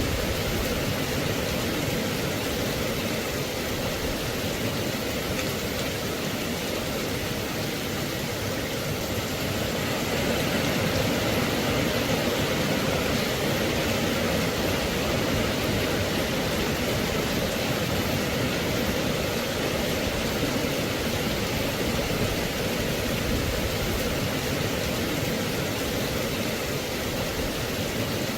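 Steady rain falling, an even hiss of noise that grows a little louder about ten seconds in.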